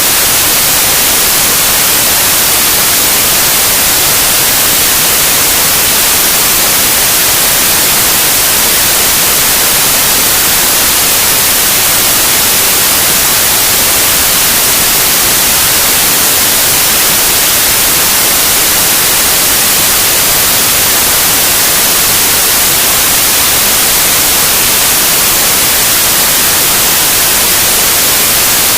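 Loud, steady white noise: an even, unchanging hiss, brightest in the high end.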